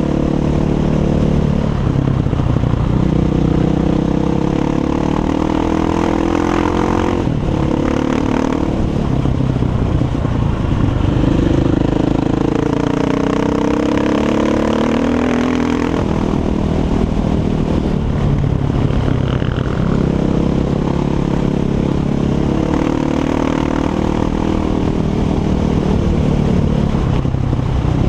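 Six Days 500 enduro motorcycle with an Akrapovič exhaust, running under way. The engine pitch climbs and drops again and again as it accelerates and backs off.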